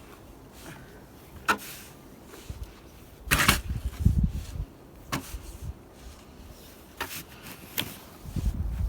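Snow shovel working through deep snow: a handful of short, separate scrapes and crunches a second or two apart, with low thuds near the middle.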